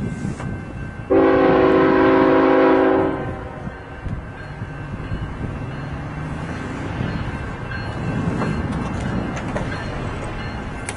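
Diesel locomotive air horn sounding one blast of about two seconds, a chord of several tones starting suddenly about a second in, over the steady rumble of a passing train.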